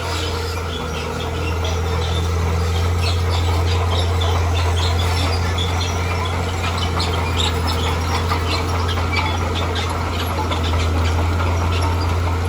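Bulldozer's diesel engine running steadily under load, getting louder about a second and a half in, with many short high-pitched squeaks and squeals over it.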